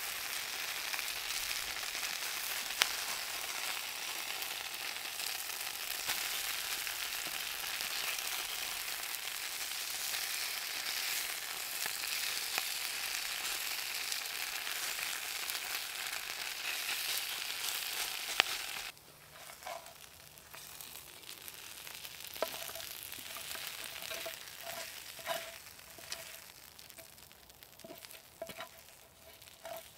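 Food frying in a hot pan, a steady sizzle that cuts off suddenly about two-thirds of the way through, leaving faint scattered clicks and ticks.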